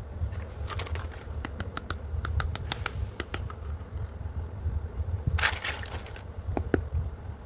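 Small plastic toy pieces clicking and tapping as they are handled, a quick run of clicks followed by a short crinkling rustle of packaging and a few more taps.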